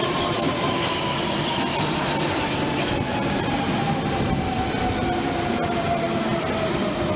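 London Underground Central Line train (1992 Stock) running into the platform, its traction motor whine falling steadily in pitch as it slows, over the rumble of wheels on rail.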